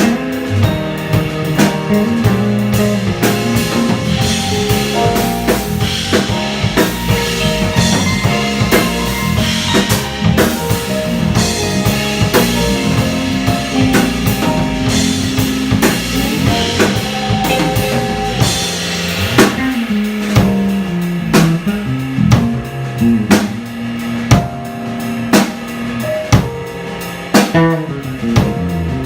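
Live jazz quartet of guitar, piano, bass and drum kit playing, the bass line moving under the guitar and piano. Sharp drum hits stand out more in the last third.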